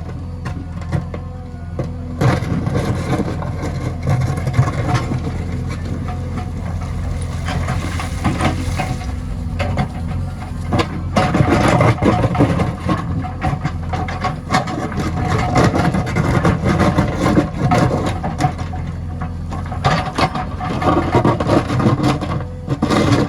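JCB 3DX backhoe loader's diesel engine running steadily, with scattered knocks and clanks from the machine at work.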